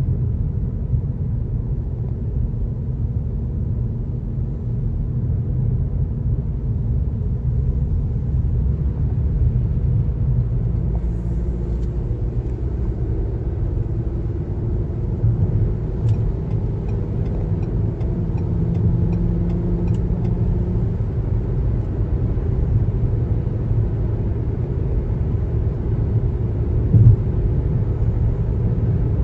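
Car driving along a highway: steady low road and tyre rumble, with a faint hum in the middle and a brief knock near the end.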